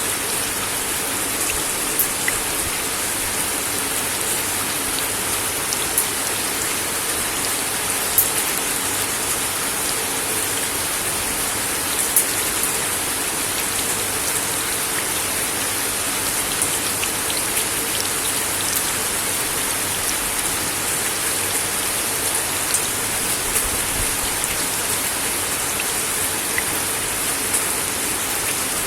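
Steady rain falling on a wooden deck: an even hiss with scattered sharp drop ticks, a few of them louder.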